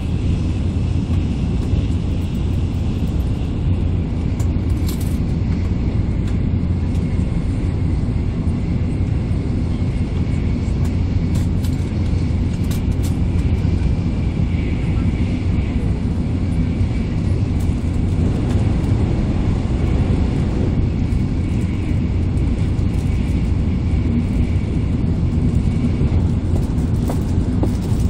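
Steady low rumble of an N700A Shinkansen running at speed, heard inside the passenger cabin.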